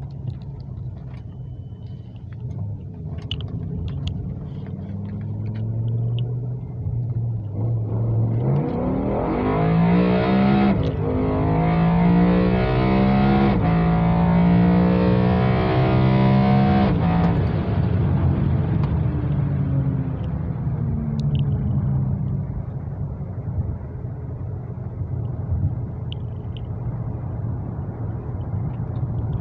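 BMW E60 M5's V10 engine, breathing through carbon fibre intake plenums, with intake noise. It runs steadily, then from about eight seconds in accelerates hard through several quick upshifts, its pitch climbing and dropping back at each shift. It then eases off and settles back to a steady drone.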